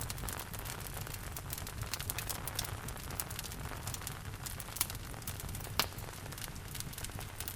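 Wood fire in a fireplace crackling with a constant run of small pops, two louder snaps a little after the middle, over a steady hiss of rain and a low rumble.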